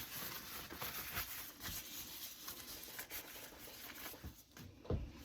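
Rustling and light clicking of hands handling things at a kitchen counter.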